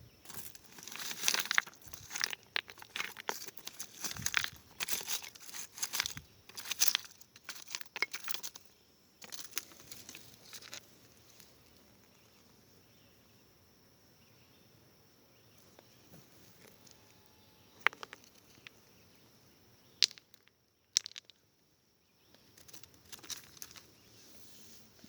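Dry leaves and loose stones rustling and crunching as rocks are handled and stepped on, dense for the first nine seconds or so, then sparse with a few sharp clicks and more rustling near the end. A faint, steady, high-pitched insect drone runs underneath once the crunching eases.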